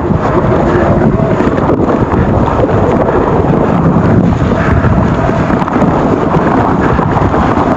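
Wind buffeting the microphone of a mountain-bike rider's camera while riding the trail, over a steady rumble from the bike with many small knocks and rattles.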